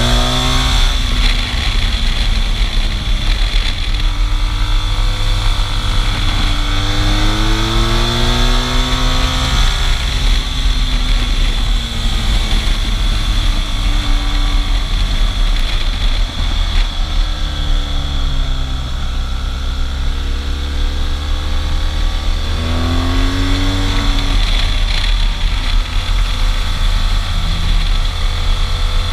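Motorcycle engine under way, its pitch rising and falling several times as the throttle opens and closes, over a steady rush of wind noise and a faint steady high whine.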